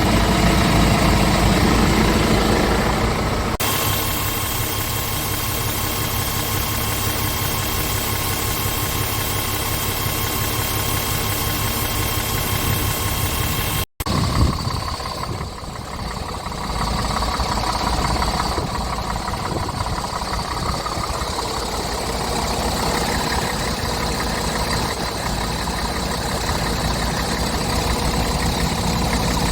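Scania R500 tractor unit's 13-litre inline-six diesel idling steadily. The sound changes abruptly about three and a half seconds in and cuts out for an instant near the middle, as takes from different spots are joined.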